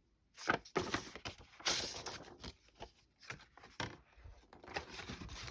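Paper rustling and crinkling as old greeting cards and booklet pages are handled and shuffled, in irregular swishes with a few soft taps.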